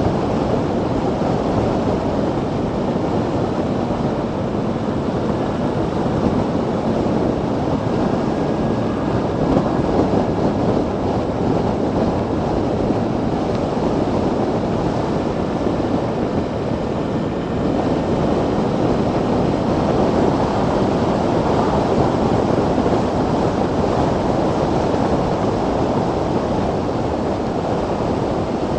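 Steady wind rush on the microphone with road noise from a moving 2016 Zero DSR electric motorcycle.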